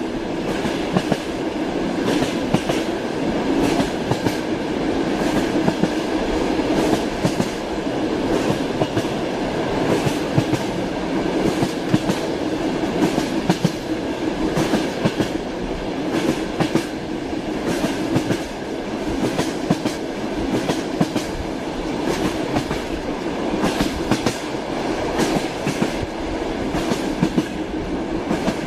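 Train wheels clattering over rail joints as a train runs steadily, a continuous rumble with frequent irregular knocks and clicks.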